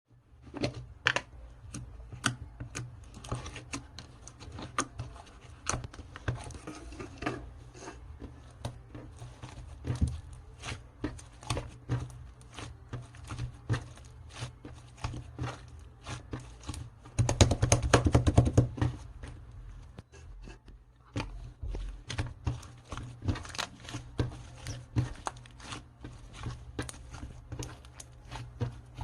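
Slime being squeezed and poked by hand, giving a stream of sticky clicks and small pops. About 17 seconds in there are a couple of seconds of denser, louder crackling.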